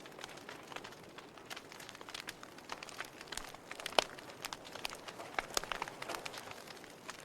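Wood fire crackling: a steady low hiss of flames with irregular sharp pops and snaps, one louder pop about four seconds in.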